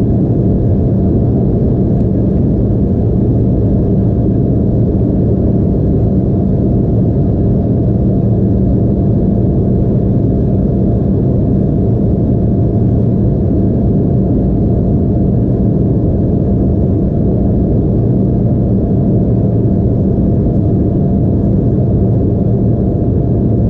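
Steady cabin drone of an Embraer E175 jet, heard from a window seat: the twin turbofan engines running with airflow noise, a low, even rumble with a faint steady hum and no change in level.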